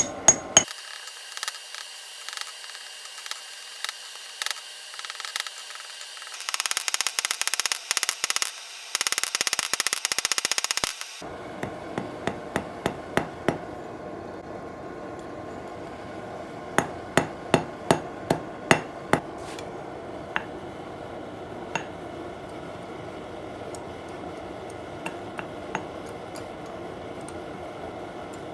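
Hand hammer striking hot mild steel on an anvil, the blows ringing sharply. About a third of the way in comes a fast, dense run of strikes lasting several seconds; after that, short groups of about three blows a second, then occasional single taps.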